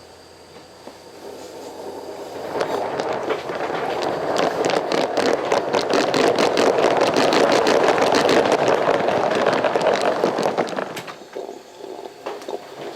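Coal-fired live-steam locomotive No. 4633 working past with rapid, even exhaust beats. It grows louder over the first few seconds, is loudest in the middle and fades away near the end. Its valves are machined for little cut-off, which gives a heavy exhaust.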